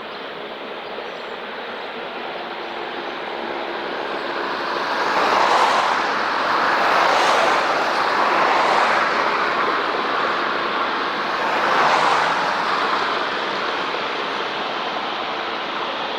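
Jet airliner, an Airbus A350 with its Rolls-Royce Trent XWB turbofans, at takeoff power. The engine noise swells to a loud peak about five seconds in, with a sweeping, shifting tone as the aircraft passes, and eases off near the end.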